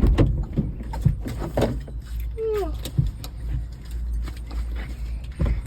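Car cabin road noise, a steady low rumble, with scattered clicks and knocks and one short falling pitched sound about halfway through.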